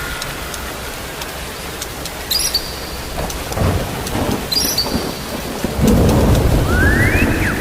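Steady rain falling, with thunder rumbling in about halfway through and growing louder near the end.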